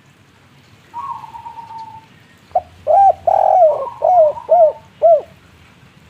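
Spotted dove (tekukur) song in the 'kuk 3' style: a drawn-out coo about a second in, then a run of short arching coos that ends in three evenly spaced notes.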